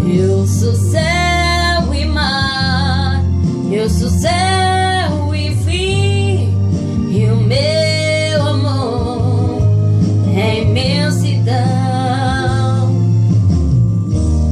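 Young female voice singing a slow ballad, with long held notes that waver in pitch, over a backing track with a steady low bass.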